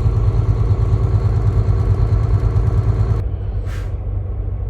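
Volvo semi truck's diesel engine running steadily during a parked DPF regeneration, a low pulsing drone, turning quieter and duller about three seconds in.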